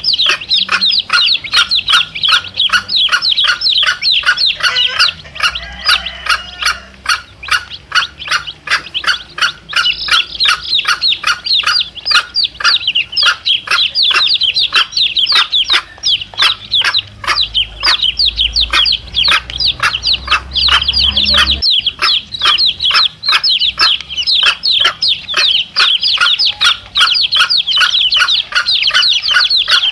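Domestic chicks peeping incessantly, a rapid train of high peeps about four a second, each falling in pitch, with a mother hen clucking among them.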